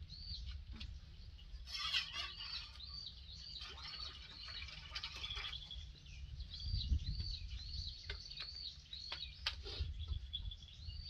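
Birds chirping: a high, arched note repeated about twice a second, over a low rumble, with a few short clicks.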